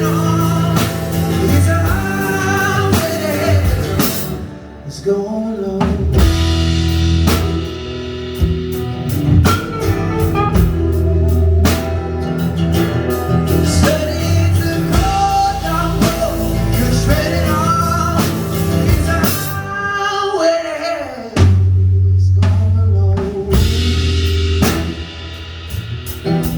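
Live band playing a blues-gospel song: drum kit, bass guitar, keyboard and electric lead guitar, with melody lines that bend in pitch. The band thins out briefly about 20 seconds in, then the bass and drums come back in strongly.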